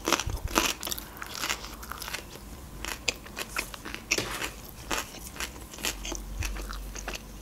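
Close-miked chewing: a person eating with mouth closed, making irregular sharp wet mouth clicks.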